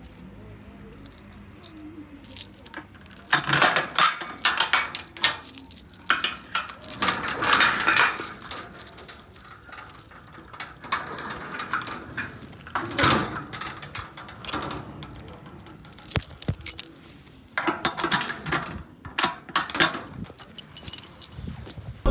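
Keys jangling and clinking as they are handled, in irregular bunches of rattling with quieter gaps between.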